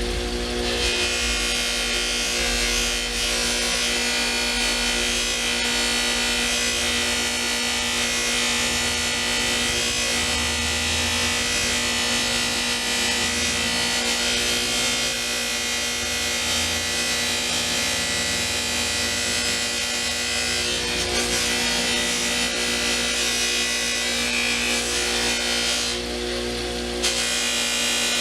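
A rotary power tool running steadily, buffing wax on a steel pry bar, with a constant motor tone under a dense hiss of the wheel on the metal. The hiss briefly thins for about a second near the end, then carries on.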